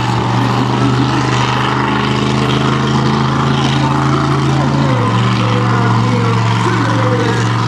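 Xtermigator monster truck's engine running at a steady speed, a loud drone that drops slightly in pitch about five seconds in.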